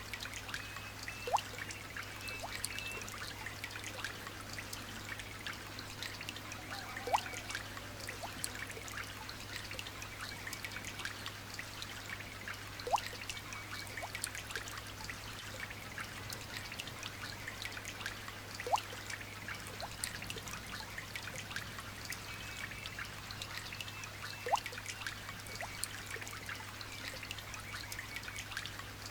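Light rain pattering with water trickling and dripping, a louder single drip about every six seconds. Faint bird chirps come through at times.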